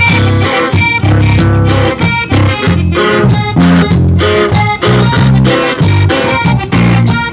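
Norteño band playing an instrumental introduction: melody notes over a steady bass and rhythm accompaniment.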